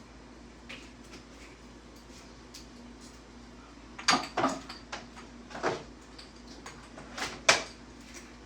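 Kitchenware being handled: a handful of sharp knocks and clinks in two clusters, about four seconds in and again near the end. A faint steady hum lies underneath.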